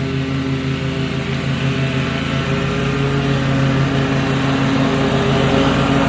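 Commercial stand-on zero-turn mower's engine running steadily at mowing speed, growing slightly louder.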